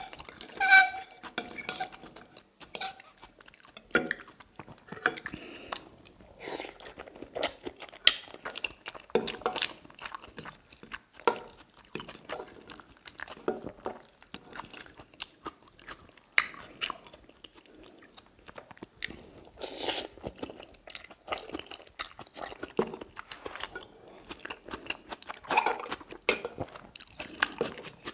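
Close-up eating sounds of tagliatelle in salmon cream sauce: chewing and mouth noises, with irregular clicks of cutlery against a dish throughout.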